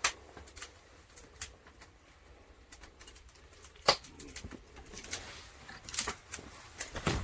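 Wood fire of resinous pine crackling and popping in a firebox, with irregular sharp snaps, the loudest about four seconds in, over a low steady rumble.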